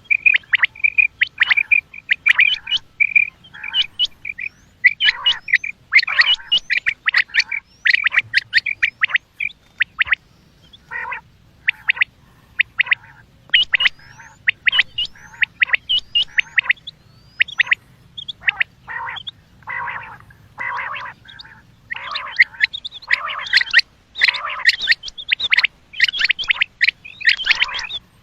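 Common quail calling: a rapid, uneven series of short, sharp chirping notes that grows denser over the last few seconds.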